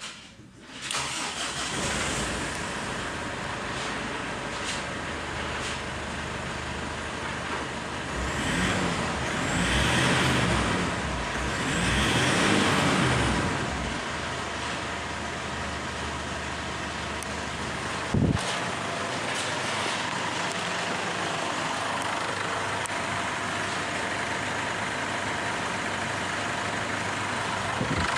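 Mazda BT-50 engine starting about a second in and running, revved briefly twice near the middle, with one sharp knock a little later, then settling to a steady idle.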